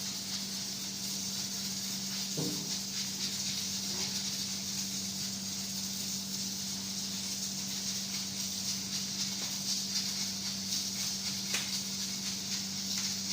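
Zebra finches chattering in a cage, heard through a steady hiss and a constant low hum, with a couple of faint brief sounds about two and a half seconds in and near the end.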